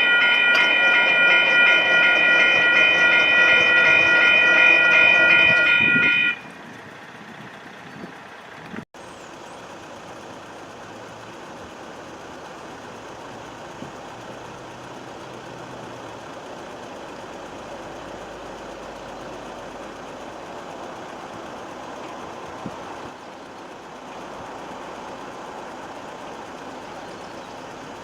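Passing train's air horn sounding one long steady chord for about six seconds, then cutting off abruptly. Only a faint, steady rumble of train and background noise follows.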